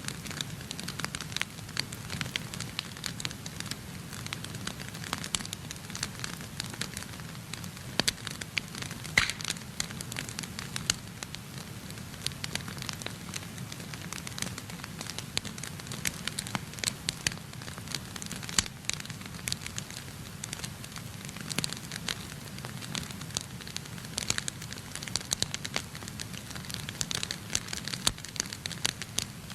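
Wood fire burning in a fireplace, crackling and popping: many irregular sharp snaps over a steady low rumble of the flames.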